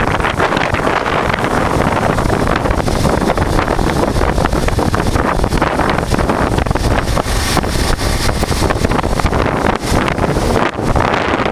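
Heavy wind buffeting the microphone of a moving motorcycle, with the 1988 Honda Transalp's V-twin engine running beneath it at riding speed. The rush briefly drops near the end.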